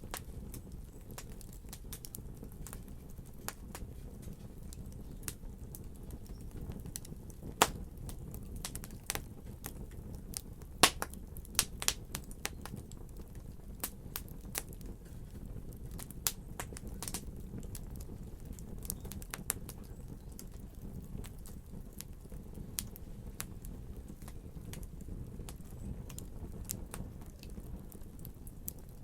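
Wood fire in a fireplace crackling: scattered sharp pops and snaps over a low, steady rumble, with a few louder pops about a quarter to a third of the way in.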